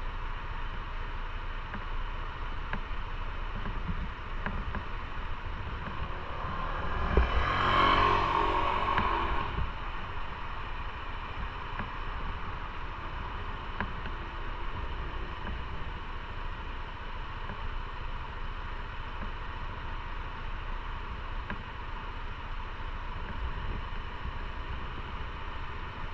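Steady motorcycle riding noise: wind and road rush with the engine running. About seven seconds in, the engine sound swells louder for a couple of seconds and then settles back.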